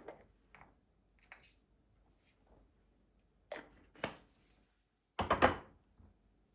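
Household handling sounds: a few light knocks and clicks, then a louder knock about five seconds in.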